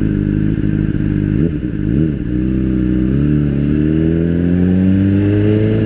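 Motorcycle engine running under way. The revs dip and pick up twice about one and a half and two seconds in, then climb slowly and steadily as the bike accelerates.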